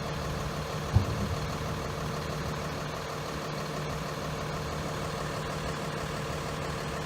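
A vehicle engine idling steadily, with a short thump about a second in.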